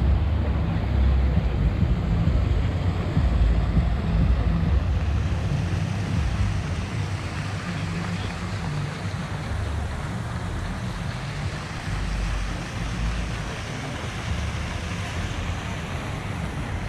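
Wind buffeting the microphone: a heavy, gusting rumble over a steady rushing noise, strongest in the first few seconds.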